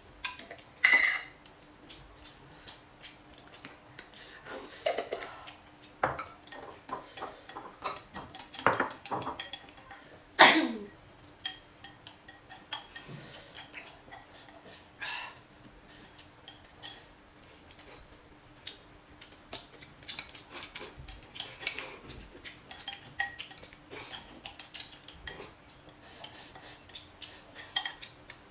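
Utensils clinking and tapping against dishes during a meal, in scattered small clicks with a louder clink about ten seconds in. A faint steady hum runs underneath.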